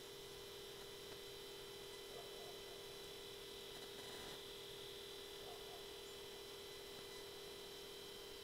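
Steady electronic whine made of several fixed tones at low level, with a few faint small sounds over it.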